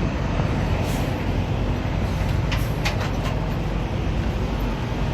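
Diesel truck engine idling: a steady low rumble, with a few faint clicks.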